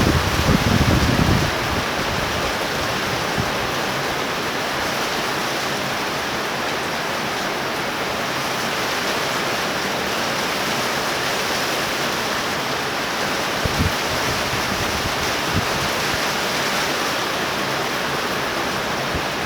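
Torrential rain falling in a steady hiss. Gusts of wind buffet the microphone in the first second or so and again briefly around 14 seconds in.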